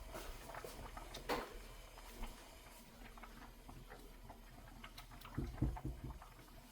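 Kitchen handling sounds: scattered light clicks and taps, a sharper click about a second in, and a few low thumps near the end.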